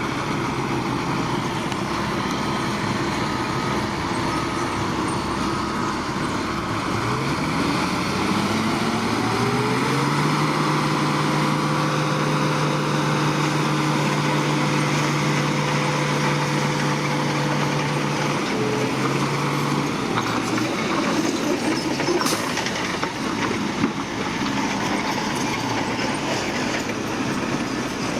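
Diesel engine of heavy earthmoving equipment running, revving up over a few seconds and holding at high revs, then dropping back down about two-thirds of the way in. The machine works over a steady bed of mechanical noise.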